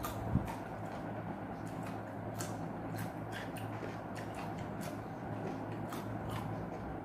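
Close-up chewing of raw cucumber: many short, irregular crisp clicks and crunches, several a second, over a steady low hum.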